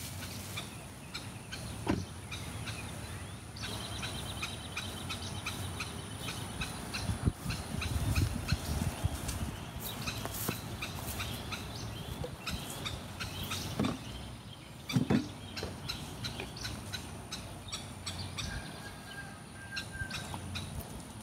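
Birds calling outdoors: many short repeated chirps, with a rapid high trill from about four to eight seconds in. A few short knocks come now and then.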